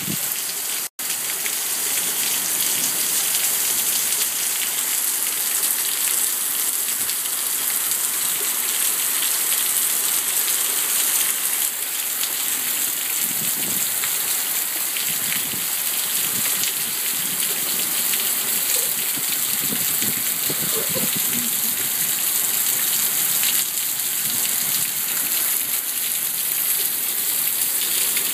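Heavy thunderstorm downpour: a steady, dense hiss of rain pouring down and splashing on surfaces. It cuts out for an instant about a second in.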